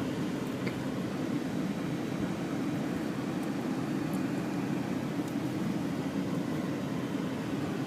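Steady low hum of a truck's engine and road noise heard from inside the cab while driving slowly.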